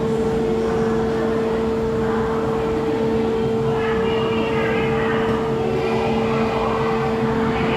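Ocean Express funicular train running, heard from on board: a steady rumble with a constant hum.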